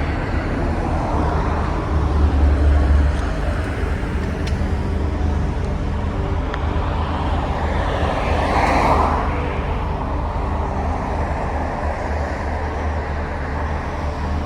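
Road traffic noise with a low wind rumble on the microphone of a moving bike; a vehicle passes, loudest about eight to nine seconds in.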